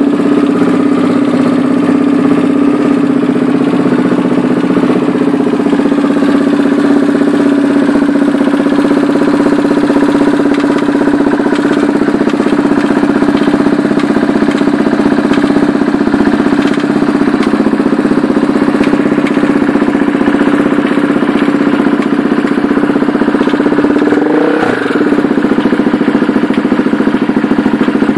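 2007 KTM 690 SM's single-cylinder engine idling steadily with a weird rattle that the owner cannot explain; he finds it strongest with the bike on its sidestand, and it fades when the bike is stood upright. A short blip of the throttle comes near the end.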